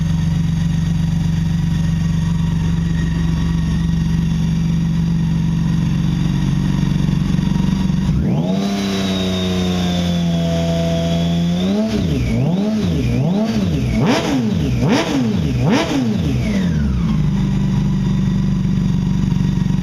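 Campagna T-Rex 16S's BMW 1.6-litre inline-six engine, through its cat-back exhaust, idles steadily. About eight seconds in it is revved up and held high for a few seconds, then blipped several times in quick succession before settling back to idle near the end.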